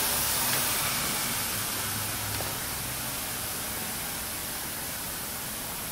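Steady, even hiss with no tone or rhythm in it, slowly getting quieter.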